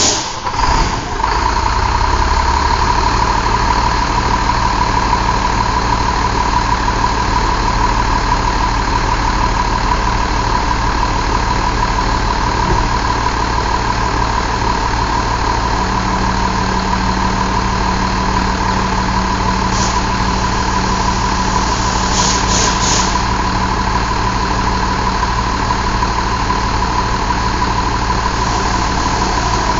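2005 Mercedes MBE926 inline six-cylinder diesel engine running, settling to a steady idle within the first few seconds. A couple of short hisses come about twenty seconds in.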